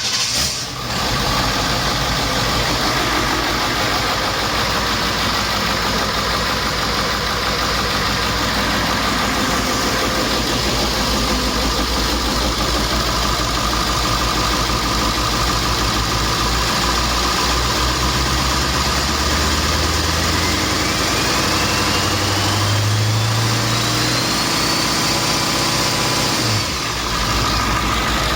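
International T444E 7.3-litre V8 turbo diesel engine catching right at the start and then running at a steady idle. About seventeen seconds in it is revved up, with a whistle climbing in pitch. Near the end it drops sharply back to idle.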